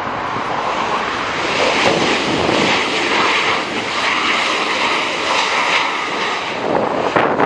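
Jet airliner passing close by: loud, steady engine noise with a faint high whine running through it.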